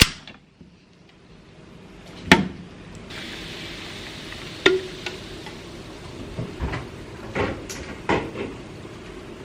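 Scattered knocks and clacks of hard objects being handled. About three seconds in, a steady hiss of running water starts and carries on underneath them.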